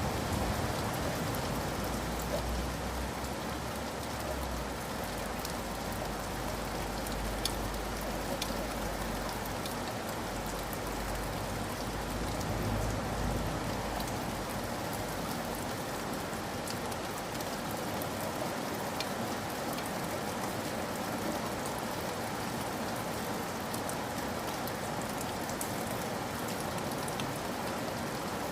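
Steady rain falling, an even hiss with scattered close drops ticking. A low rumble underneath fades out about halfway through.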